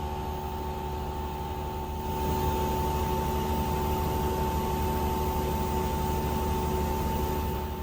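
Air conditioner running: a steady airflow whoosh over a steady hum with a constant whine, growing louder about two seconds in and easing back down near the end.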